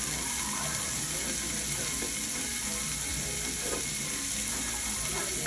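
Turkey, peppers and onions sizzling steadily in a hot pan while being stirred, with a utensil rattling and clicking against the pan.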